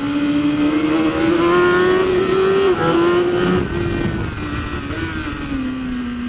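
BMW S1000RR superbike's inline-four engine at high revs under acceleration, its pitch climbing slowly for about three seconds, dipping briefly, then holding and easing off toward the end.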